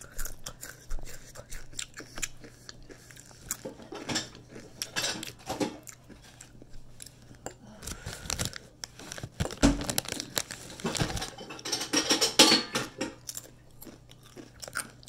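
Close-up crunching and chewing of Flamin' Hot Doritos tortilla chips, with crinkling of the foil chip bag. The crunches come in irregular bursts, with a louder, denser run of crackling near the end.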